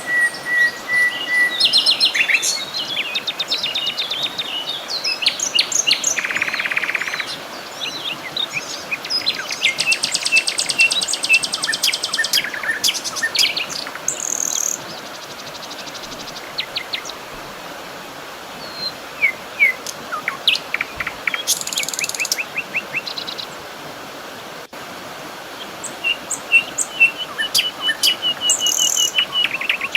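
Several wild birds calling and singing: short chirps, whistled notes and rapid trills coming in clusters, over a steady background hiss.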